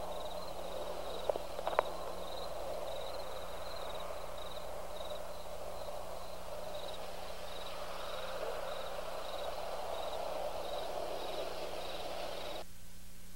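Night-time outdoor ambience: a steady hiss with a faint, evenly repeating high chirping over it, and two sharp clicks a little under two seconds in. The ambience cuts off abruptly just before the end.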